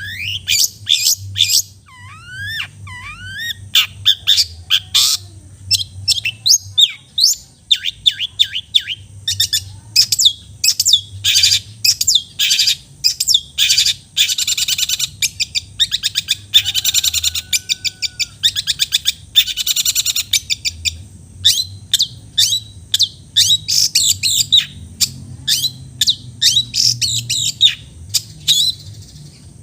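Long-tailed shrike (cendet) singing a fast, unbroken song of sharp chips, rising and falling whistles and dense buzzy rattles, the mimicked calls of other birds that keepers call isian.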